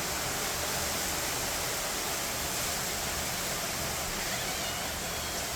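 Heavy rain pouring down in sheets: a steady, even hiss with no let-up.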